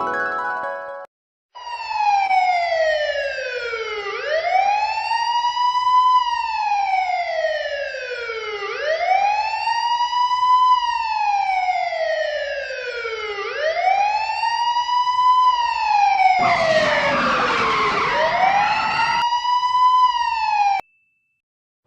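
A wailing siren, the kind used on emergency vehicles. Its tone rises quickly, then slides slowly down, and the cycle repeats about every four to five seconds. A noisy rush joins it for a few seconds near the end, and the wail stops abruptly.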